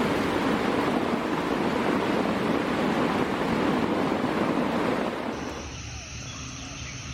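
Steady, loud rushing noise, with no tone or rhythm in it. It fades away about five and a half seconds in, and a faint high steady tone comes in.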